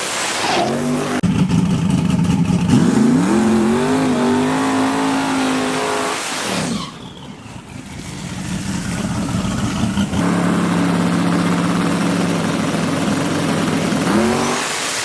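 LS V8 race truck engines revving and accelerating hard. The pitch climbs in steps, then falls away and goes quieter about seven seconds in. A steady high-revving note follows, with another climb near the end.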